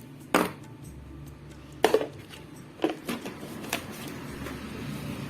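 Metal hand tools and a length of copper wire being handled on a workbench: about six short sharp clicks and knocks, the loudest about a third of a second in and a quick double knock near two seconds.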